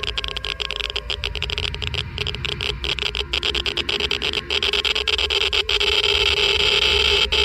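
Geiger counter clicking rapidly and irregularly, its random clicks thickening into a louder crackling hiss over the last few seconds.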